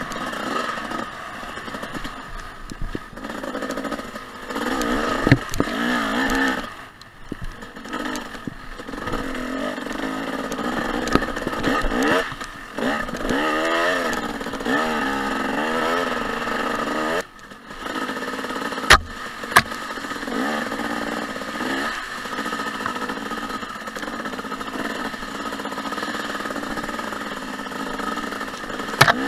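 Two-stroke dirt bike engine, a 2014 Husqvarna TC 250, revving up and down as it rides a trail, with the throttle closing briefly twice. Two sharp knocks come close together about two-thirds of the way through.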